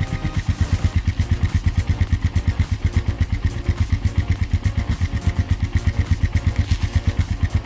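Engine idling with a slow, even chug of about seven or eight firing pulses a second.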